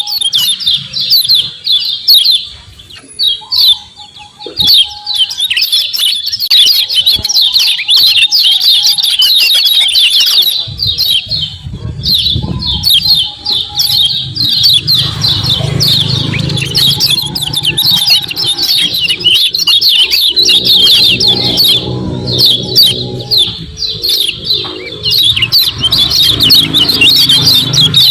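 Kecial kuning white-eye giving rapid, continuous 'ciak ciak' chattering chirps, with a short lull a few seconds in. A low hum sits under the calls in the second half.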